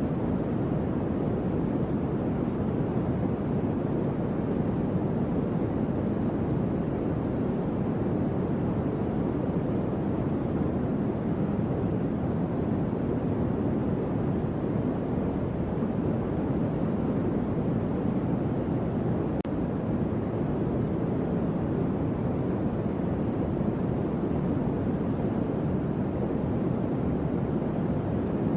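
Electric fan running steadily: an even, low rushing whoosh of moving air with no changes.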